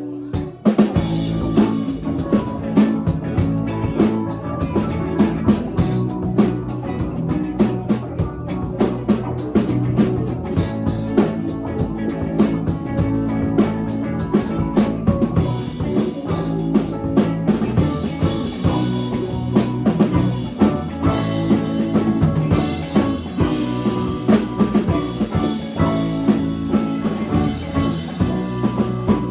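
Live band music with a drum kit driving a steady beat of snare and bass drum hits over sustained guitar and bass.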